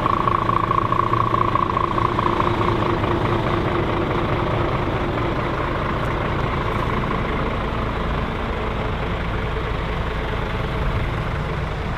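Heavy truck engine running steadily, with a steady higher tone in the first few seconds that fades away.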